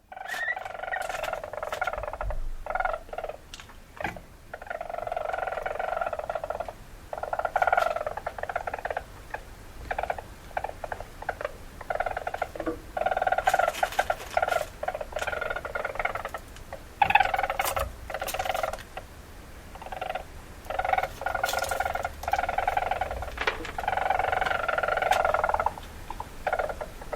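A bird of prey crying over and over: harsh, rattling calls in bursts of one to two seconds with short gaps between them.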